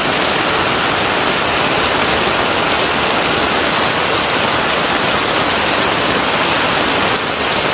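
Heavy rain falling on a flooded road: a loud, steady hiss of drops hitting standing water.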